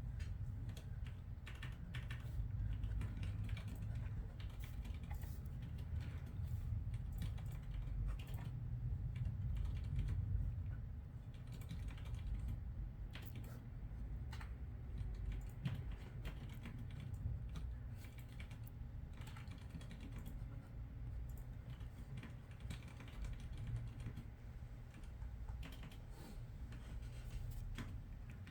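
Computer keyboard typing: irregular, quick runs of keystroke clicks, over a low steady hum.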